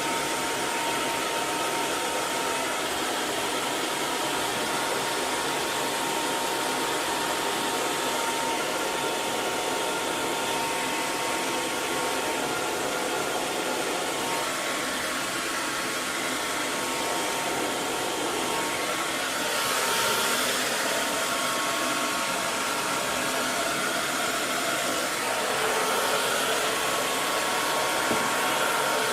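Hair dryer blowing continuously, a steady rush of air with a faint whine from its motor; the level swells slightly about two-thirds of the way through.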